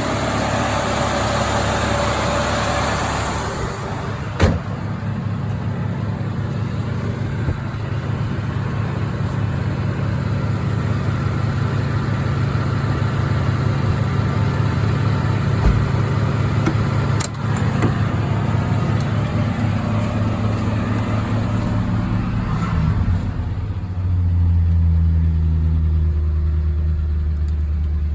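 Mark V car engine running steadily as the car is driven, with a couple of sharp clicks. About 24 seconds in, the engine note shifts to a deeper, louder drone.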